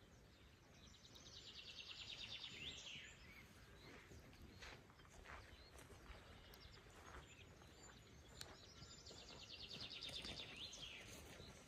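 A songbird singing twice, about eight seconds apart. Each song is a quick, high trill of rapidly repeated notes that ends in a falling flourish, faint over quiet outdoor background.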